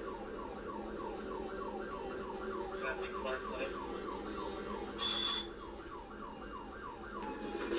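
Police car siren in yelp mode, its pitch sweeping rapidly about four times a second, ending near the end with one held tone that falls. A brief hiss cuts in about five seconds in.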